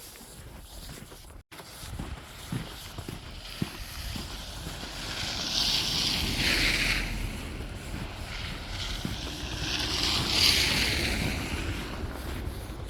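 Two vehicles passing one after the other on a slushy, snow-covered road, the tyre hiss swelling and fading each time.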